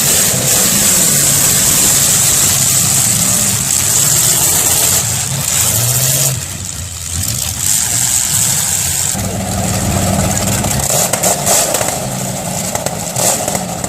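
Demolition derby car engines running and revving, rising and falling in pitch, with a few sharp cracks near the end.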